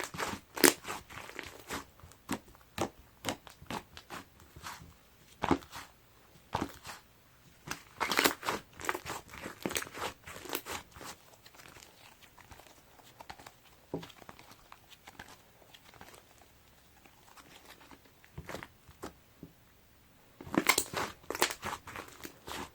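Slime mixed with clay being squeezed and poked by hand, giving irregular crackling pops and squishes. They come in dense bursts near the start, in the middle and near the end, with sparser clicks between.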